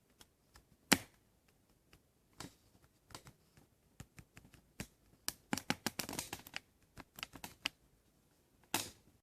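Scattered light clicks and knocks of small hard objects being handled, with one sharp knock about a second in and a busier run of clicking and clattering in the second half.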